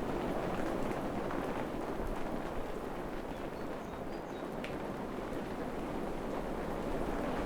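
Steady rain falling, an even hiss. Faint high chirps come through near the start and again about halfway, with a sharper drip-like tick a little later.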